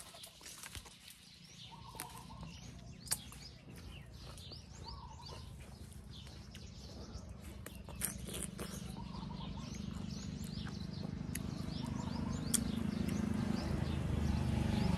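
Small birds chirping, many short high chirps throughout. A low rumble grows steadily louder through the second half, with a few faint clicks.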